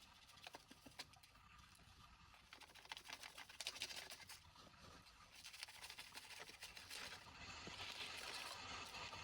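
Faint clicking and crunching of sand, shells and beach debris being handled, with a soft sea wash that swells near the end.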